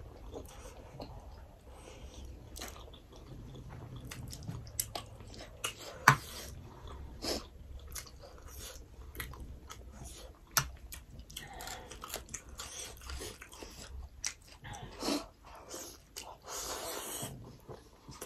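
Close-up eating sounds of people chewing steamed mutton momos, with a few sharp clicks, the loudest about six seconds in and another about ten and a half seconds in.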